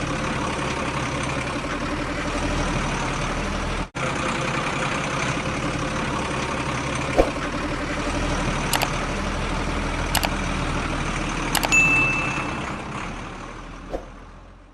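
A mini tractor's small motor running steadily, with a few sharp clicks and a brief high ding near the end. The sound then fades out.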